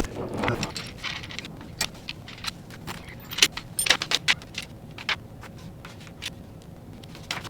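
Metal tools and bike parts clinking and clicking irregularly while the front wheel is fitted to a Stacyc electric balance bike.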